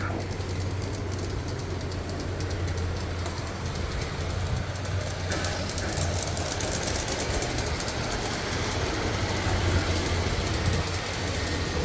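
Hartland LaPorte large-scale model locomotive running along its track: a steady low motor-and-gear hum with fine clicking from the wheels on the rails.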